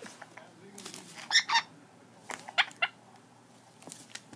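Red-lored amazon parrot giving a few short squawks and chirps, one pair about a second in and a few more sharp ones near the middle.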